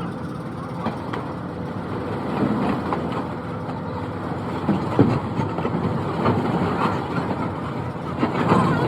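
An engine running steadily, with scattered knocks and one sharp knock about five seconds in.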